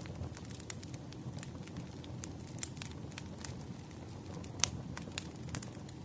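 Wood fire crackling: irregular sharp pops and snaps over a steady low rumble of burning logs, with a louder pop a little after halfway and another soon after.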